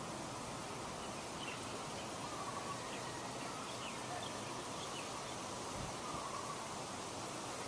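Outdoor nature ambience: a steady rushing noise with a few faint, short, high bird chirps in the first half.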